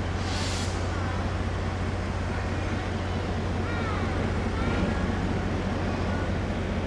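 EMD G12 diesel-electric locomotive's engine running with a steady low hum, with a short hiss about half a second in.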